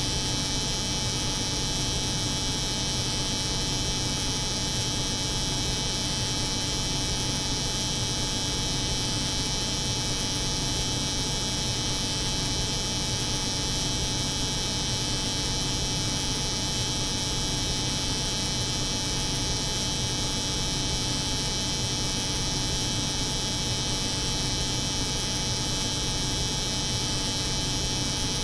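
Electric hair clipper running continuously, layered with the steady drone of a cold room: an unchanging hum with a bright high hiss over it.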